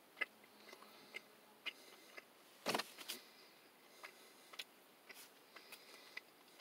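Faint close-up chewing of a pork sausage stick: scattered small mouth clicks, with one louder, noisy sound a little before halfway and a smaller one just after.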